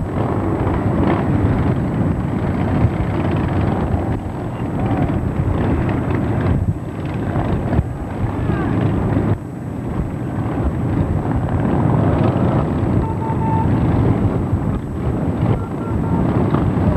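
Loud, unsteady vehicle rumble with wind buffeting the microphone.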